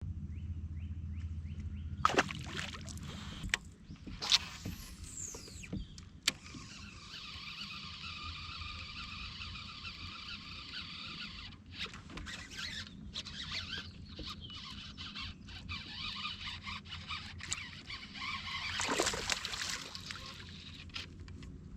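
A motor runs steadily throughout, with scattered clicks and knocks over it.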